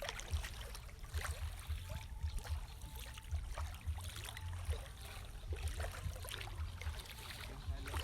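Floodwater splashing and trickling in short irregular bursts, over a low, uneven rumble on the microphone.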